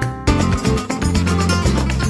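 Flamenco music with a guitar playing, full of quick, sharp rhythmic strikes.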